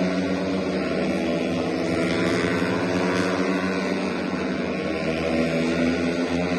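Motorcycle engines running as a steady drone, with small, slow shifts in pitch.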